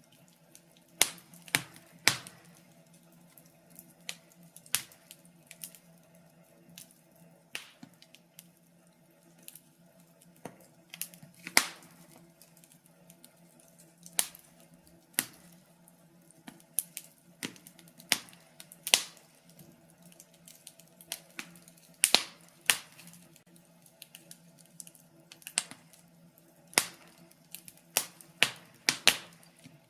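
Fire crackling in a fireplace: irregular sharp pops and snaps, some louder and some in quick clusters, over a faint steady hum.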